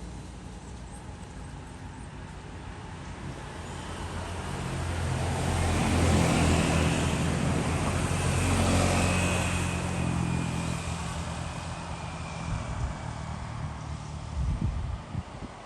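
A motor vehicle passing by: its engine hum swells to a peak about halfway through and then fades away.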